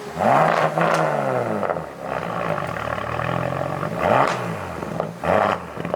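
Car engine revving hard: the pitch climbs and falls back near the start, and again about four seconds in, with a loud exhaust rush over it.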